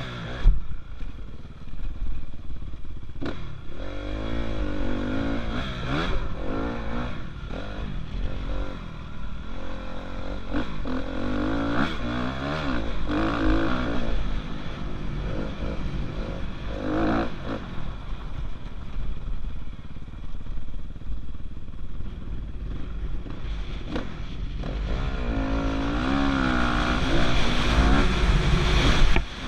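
Dirt bike engine revving up and falling back again and again as it is ridden around a motocross track, with gear changes and a steady low rumble of wind on the microphone.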